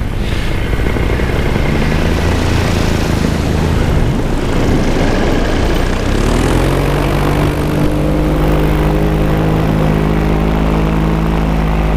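Paramotor engine and propeller running in flight, with wind noise over the microphone. About halfway through, the engine pitch rises as the throttle opens, then holds steady at the higher revs.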